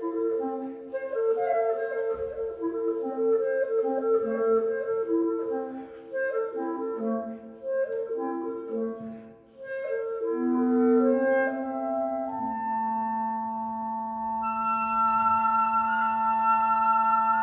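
Woodwind trio of flute and two clarinets playing: quick running notes with a brief pause about halfway, then a long held chord, with a high flute line joining near the end.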